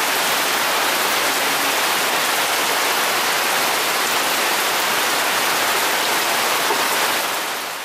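Rain falling steadily on forest trees, a dense even hiss that fades out near the end.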